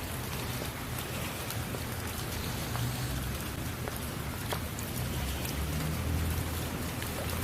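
Heavy rain falling steadily, a dense hiss with scattered sharp drop impacts and a low rumble underneath.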